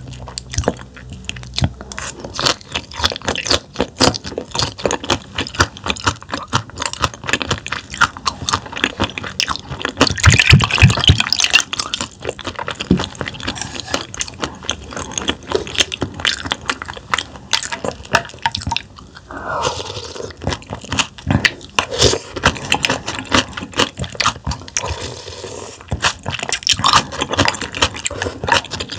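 A person chewing thinly sliced raw damselfish with its tough bones in, with many crisp crunches and clicks in an uneven run, loudest about ten seconds in.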